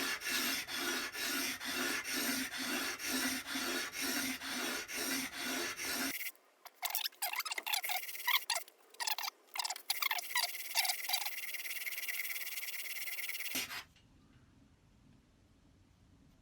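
Steel plane blade rubbed dry back and forth on 400-grit sandpaper on a flat ceramic surface, grinding a 28-degree primary bevel: even rasping strokes, about two to three a second. About six seconds in the steady strokes stop and give way to irregular scrapes and clicks, then a faint hiss near the end.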